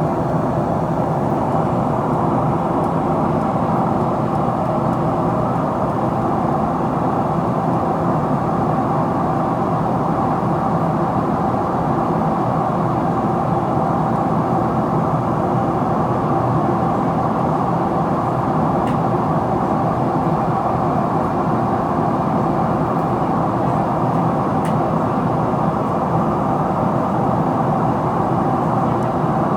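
Steady cabin noise inside a Boeing 777-300ER in descent: airflow rushing past the fuselage and the hum of its GE90 engines, with a faint steady tone.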